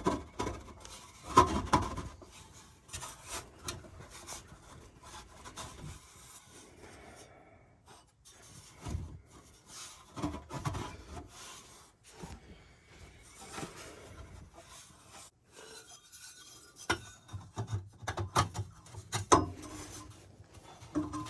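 Scattered knocks, clinks and scraping as exhaust pipe sections are handled and fitted together by hand. The loudest knocks come in the first two seconds.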